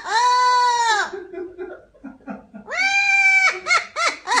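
A parrot calling: two long drawn-out calls, the second higher, then a quick run of short rising-and-falling notes near the end.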